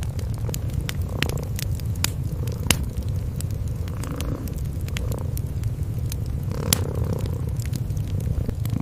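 Cats purring in a steady low rumble, over a wood fire crackling with irregular sharp pops; two louder pops come about three seconds and seven seconds in.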